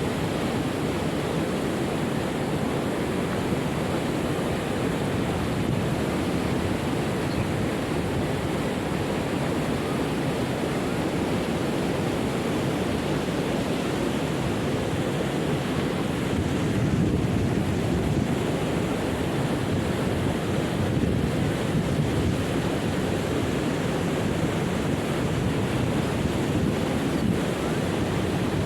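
Waterfall rushing steadily: a constant, even roar of falling water, heaviest in the low range.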